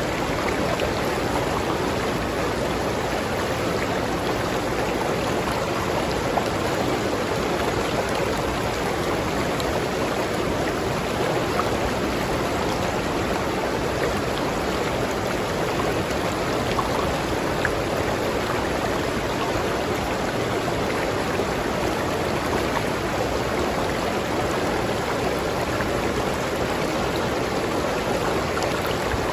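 River water flowing steadily, an even, unbroken sound of moving water.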